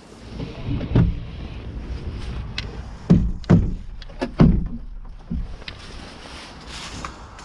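A handful of dull, heavy thumps over a low rumble: one about a second in, three close together around the middle, and a weaker one after.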